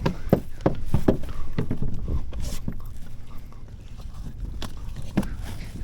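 Irregular knocks and thumps on the kayak while a freshly landed bluefish is handled and unhooked. The knocks come thick and fast for the first couple of seconds, then thin out.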